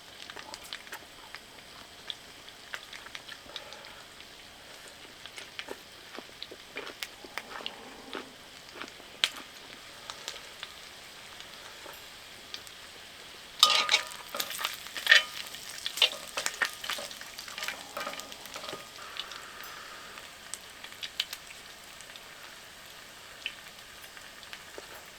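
Food sizzling steadily as it cooks on a camp grill, with frequent small crackling pops. A run of louder clicks and knocks comes about halfway through.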